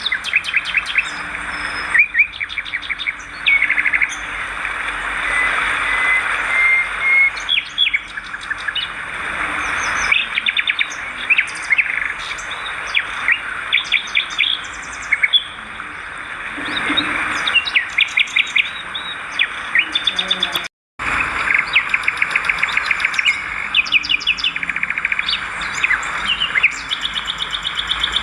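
A flock of swiftlets twittering: dense, overlapping chirps with rapid trains of clicks. The sound cuts out completely for a moment about three-quarters of the way through.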